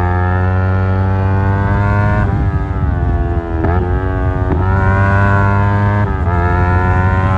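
Yamaha R25's 249 cc parallel-twin engine through an Akrapovic exhaust, pulling hard under acceleration. Its pitch climbs steadily and drops sharply about four times, as at quick upshifts.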